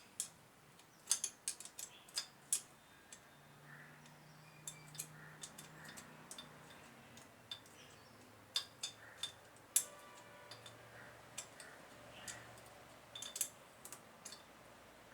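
Irregular sharp metallic clicks and taps as hand tools and small parts are worked on a motorcycle engine during assembly, with nuts being fitted and turned by hand. The clicks come in clusters, one at the start and others around the middle and near the end.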